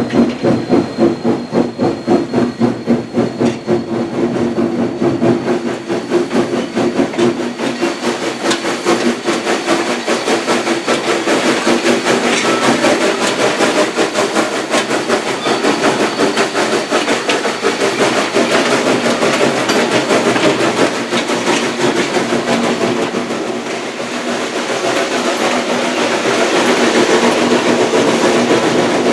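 Valley Railroad Mikado No. 40, a 2-8-2 steam locomotive, under way, its exhaust beating about two to three times a second in the first few seconds. The beat then gives way to a steadier clatter of wheels on rail.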